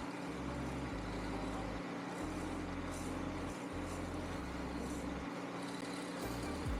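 Shopsmith woodworking lathe running with a steady motor hum.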